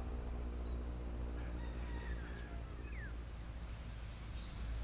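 Small birds chirping, with a few short sliding whistles in the middle, over a steady low rumble. A vehicle engine hum fades out in the first second or so.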